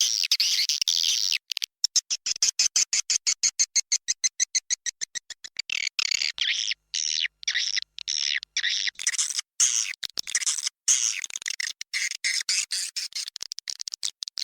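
Recorded swiftlet calls played as a lure for swiftlet houses: high, buzzy chirps and chattering clicks. They come first as a fast even run of short pulses, about eight a second, then as denser twittering.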